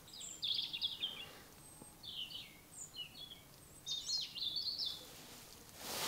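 A small songbird singing: three short bursts of high twittering chirps, about a second apart.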